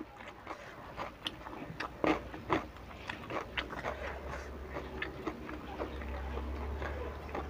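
Close-up chewing of fried tempe in chilli sambal: irregular wet mouth clicks and small crunches. A low steady hum comes in about halfway.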